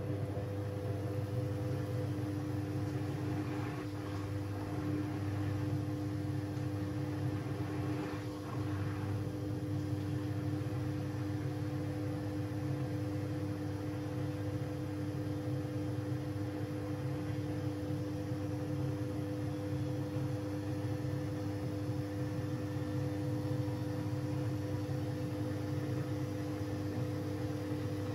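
Siemens Siwamat 6143 washing machine running a boil wash: a steady mechanical hum with a low rumble underneath.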